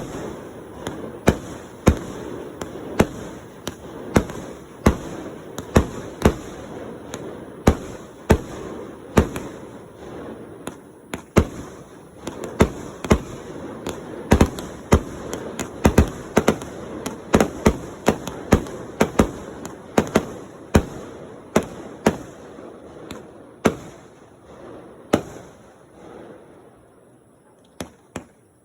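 Fireworks bursting: a rapid run of sharp bangs, roughly one or two a second, with crackling in between, thinning out and fading near the end.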